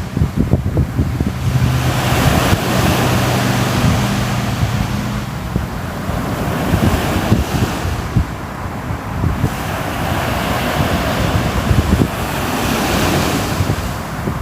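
Sea waves washing onto a shore, swelling and falling back every few seconds, with low wind rumble on the microphone.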